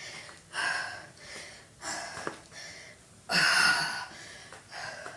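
A woman breathing hard from exertion during lunges: a series of heavy breaths about a second apart, the loudest about three and a half seconds in.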